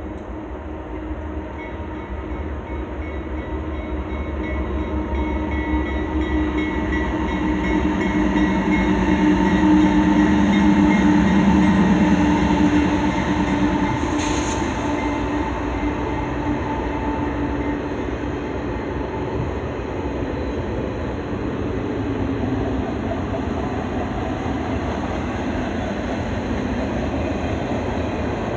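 CN GE C44-9W diesel locomotives approach and pass. The engine drone builds to its loudest about ten seconds in and then fades as the intermodal container cars roll by in a steady rumble. There is one brief sharp click about fourteen seconds in.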